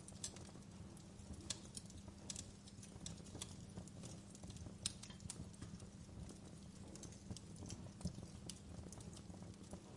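Wood fire burning in a fireplace: irregular sharp crackles and pops of the burning logs, scattered over a low steady rumble.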